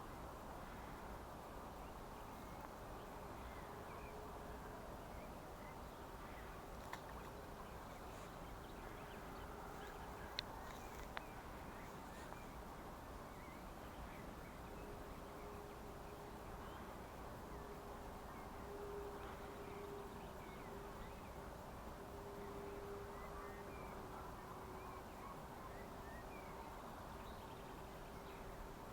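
A flying insect buzzing close by, a thin steady drone that fades in and out and is strongest in the second half, over the even rush of a small stream.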